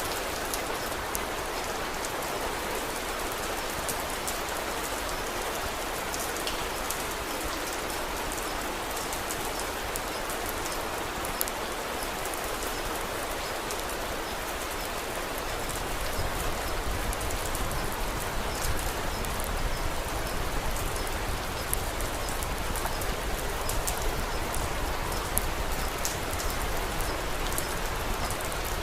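Steady rain falling, with many scattered sharp ticks of drops. About halfway through it grows a little louder and fuller, with a low rumble underneath.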